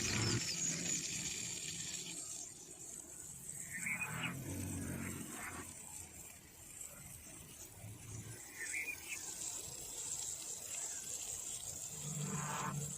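Nature ambience: rushing water that falls away about two seconds in, then a few short rising bird chirps over a steady high hiss, with several brief low voice-like sounds.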